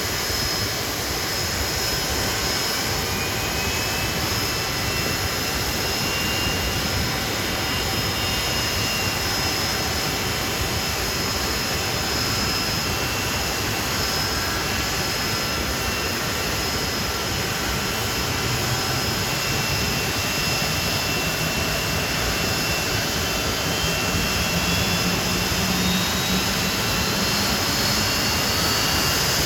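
Hawker Siddeley Nimrod's Rolls-Royce Spey turbofan engines running steadily with a loud rush and high-pitched whine. In the second half one whine slowly rises in pitch as the engines speed up, and the sound grows slightly louder toward the end.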